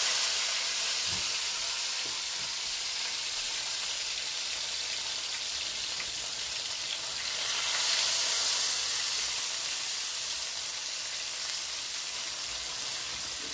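Boiled gnocchi sizzling as they pan-fry in a frying pan: a steady frying hiss that swells for a couple of seconds about midway.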